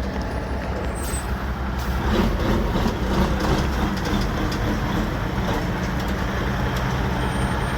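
Caterpillar 3406 diesel engine of a dump truck running steadily as the truck moves slowly.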